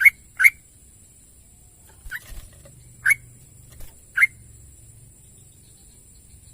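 Yellow-vented bulbul giving short, sharp calls: two quick ones at the start, then three more about a second apart, with fainter notes in between.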